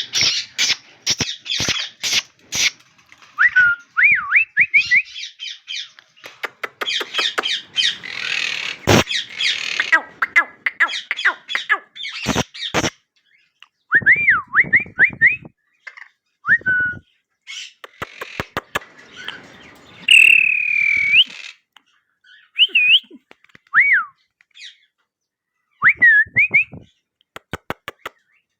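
Young male cockatiel whistling in short phrases of notes sliding up and down, in between harsh scratchy chatter and many sharp clicks.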